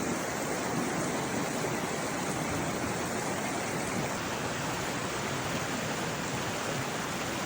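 Rushing water of a creek or river: a steady, even rush with no breaks.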